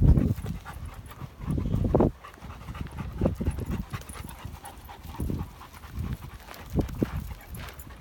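A dog panting, with a few short low rumbles, the strongest about two seconds in.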